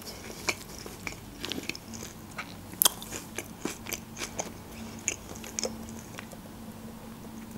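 Close-miked chewing of çiğ köfte, with scattered small clicks and one sharper click about three seconds in.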